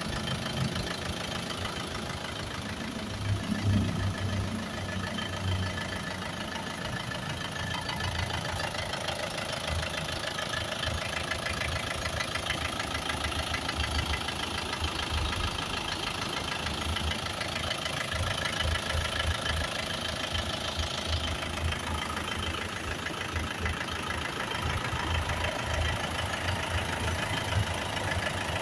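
2013 Isuzu Sportivo's engine idling steadily, with an even mechanical clatter.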